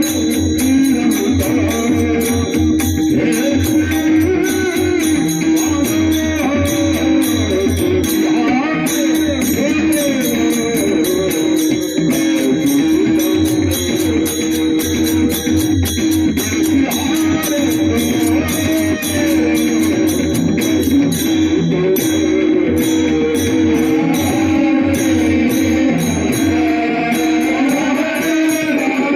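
Varkari kirtan music: a man sings a wavering, ornamented classical-style melody over a steady held drone. Beneath it a pakhawaj drum beats a fast, even rhythm, and small hand cymbals jingle in time.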